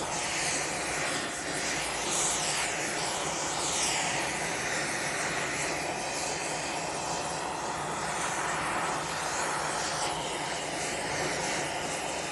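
Oxyacetylene torch flame burning steadily with a constant rushing hiss, heating A2 tool steel vise jaws toward hardening temperature.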